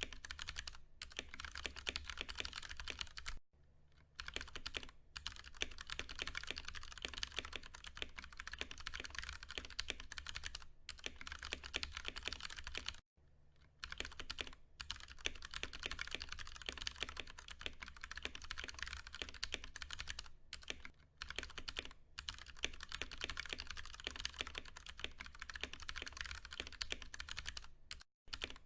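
Continuous typing on a Ducky One 2 Mini mechanical keyboard with tactile Cherry MX Brown switches, a dense run of keystrokes broken by brief pauses about three and a half seconds in, around thirteen seconds in, and near the end.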